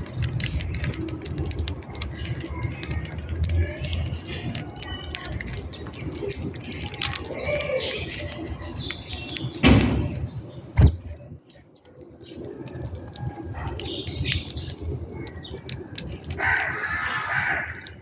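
Birds chirping and calling at a feeding spot, with many small clicks and two loud knocks about ten and eleven seconds in.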